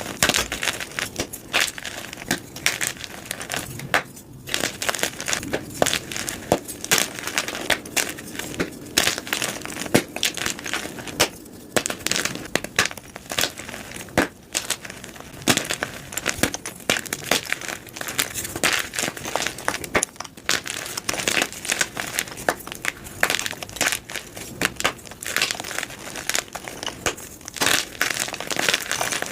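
Blocks of gym chalk being crushed and crumbled by hand, a dense run of dry crunches and crackles that come thick and irregular.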